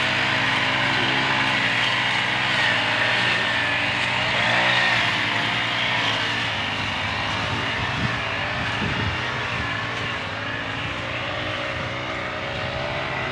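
A small engine running steadily, its pitch rising and falling briefly about four to five seconds in.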